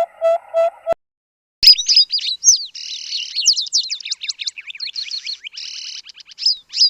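Recorded bird calls. A series of evenly repeated clear notes, about three a second, cuts off about a second in. After a short gap comes a different bird's rapid, high-pitched twittering and chattering.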